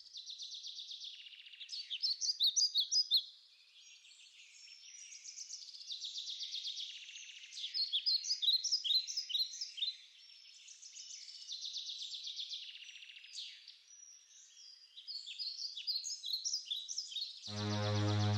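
Songbirds singing, with quick chirping phrases that grow louder in bursts every five or six seconds. About a second before the end, synthesizer music with low steady tones comes in.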